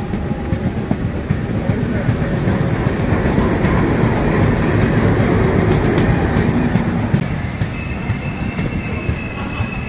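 Passenger train running on the track: a heavy, steady rumble with the click of wheels over rail joints. Near the end the rumble eases a little and a thin, steady high squeal comes in.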